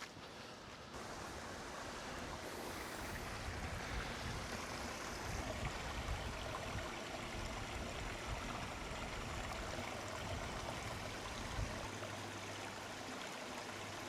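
Steady rushing of running water from a stream, coming up about a second in and holding.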